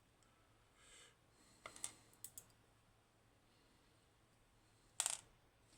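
A few faint, light clicks and taps of small metal lock pins and parts being handled during disassembly, with a sharper click about five seconds in.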